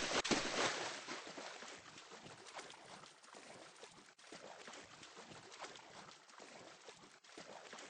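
Beach ambience: a steady rushing noise of surf and wind, with a louder surge in the first second.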